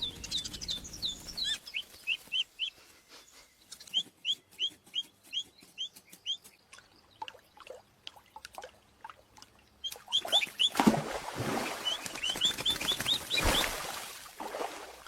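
Small bird chirping: runs of short, high, upward-sweeping chirps, about three a second, stopping and starting again. In the later part a rushing noise swells under the chirps and fades.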